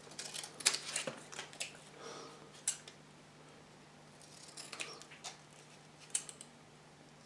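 Scissors snipping through thin brown card: a quick run of short cuts at first, then single snips and a few more cuts later on, as a small patch is trimmed.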